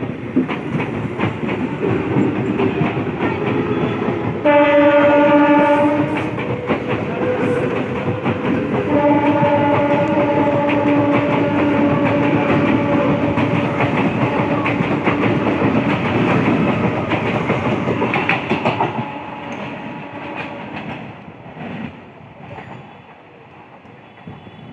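Bandel–Howrah electric local train running with its wheels clattering over the rail joints, sounding its horn twice: a short blast about five seconds in and a long one of about seven seconds soon after. The train noise dies down near the end.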